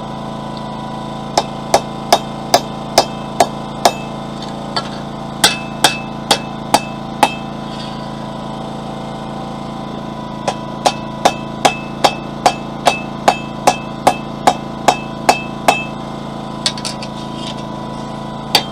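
Blacksmith's hammer striking hot steel on an anvil to draw out the bar, in three runs of steady blows at about two to three a second with short pauses between, each blow leaving a faint ring.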